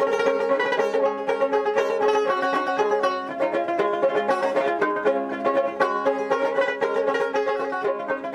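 Dotara, the Bengali fretless plucked lute, played in a quick run of plucked notes over steady ringing low strings, fading toward the end.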